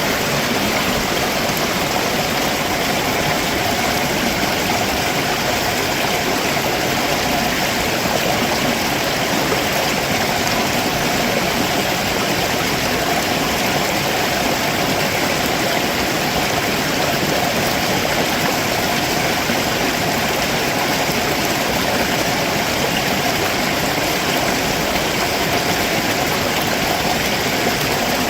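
A rocky stream below a waterfall, water rushing over rocks in a steady, even roar.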